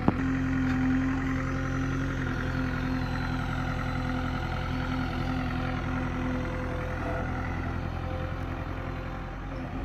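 Tractor engine running steadily at an even speed, with a brief click just as it begins.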